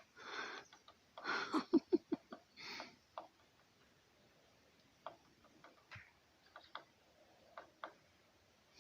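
Woodpecker tapping on wood: single sharp taps at irregular intervals, roughly a second apart. A few short rustling noises come in the first three seconds.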